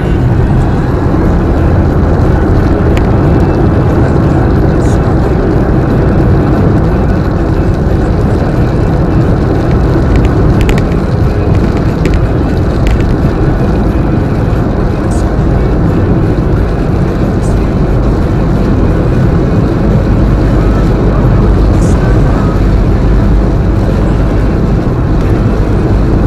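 Steady road and engine noise of a moving car, heard from inside the cabin through a dashboard action camera, with a few faint ticks scattered through it.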